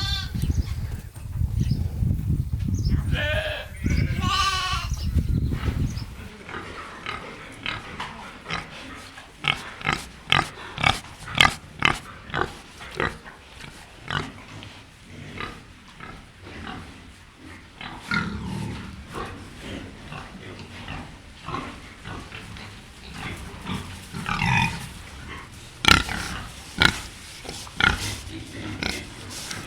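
Goats bleating over a low rumble for the first few seconds. About six seconds in the sound changes to pigs grunting, a long run of short, irregular grunts, some much louder than others.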